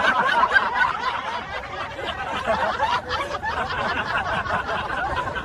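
Several people laughing and snickering at once, a little louder at first.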